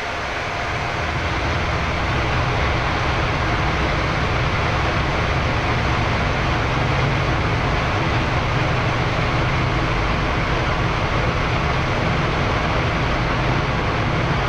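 Steady roar of airflow and engine noise on the flight deck of a Boeing 787-10 climbing out after takeoff, with a deep rumble that grows a little louder about a second in.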